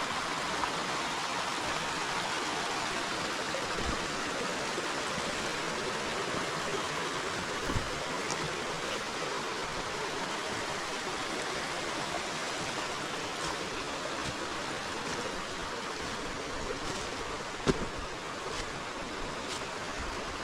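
Forest river flowing steadily, an even rushing of water, with a few short sharp clicks or knocks through it, the loudest near the end.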